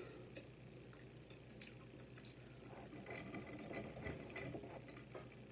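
Close-miked chewing of food with the mouth closed: faint, scattered small wet clicks and smacks, busier in the second half.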